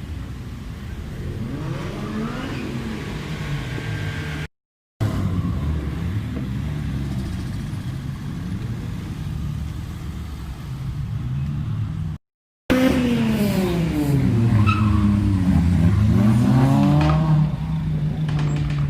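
Modified car engines revving and accelerating past, their notes rising and falling, in three short clips broken by brief silent cuts. The last clip is the loudest, with several engine notes sweeping up and down together.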